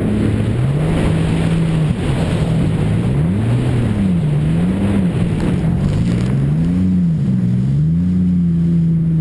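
Jet ski engine running under throttle, its pitch rising and falling several times, over a steady rushing noise.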